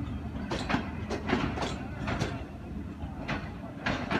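Passenger coaches rolling past with their wheels clicking over the rail joints, about two clicks a second and some in close pairs, over a steady low rumble.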